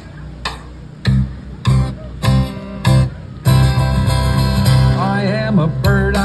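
Acoustic guitar strummed: single chords struck about every half second at first, then continuous strumming about halfway in. Near the end a voice comes in, its pitch sliding up and down over the guitar.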